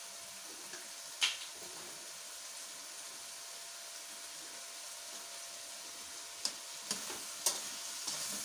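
Chicken pieces frying in a steel pan over a gas flame, a steady high sizzle. A sharp metal clink comes about a second in, and several more near the end as a fork stirs against the pan.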